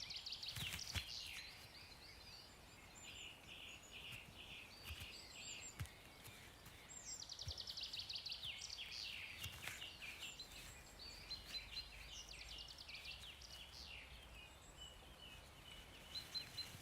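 Songbirds singing faintly in woodland: a series of quick trilled and chirping phrases every few seconds, the clearest a fast run of notes about seven seconds in.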